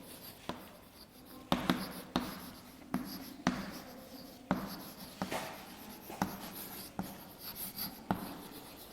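Handwriting: a pen or marker scratching across a writing surface, with irregular sharp taps as strokes begin and end.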